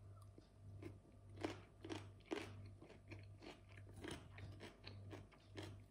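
Chewing a mouthful of crisp raw cucumber: faint crunches, about two a second.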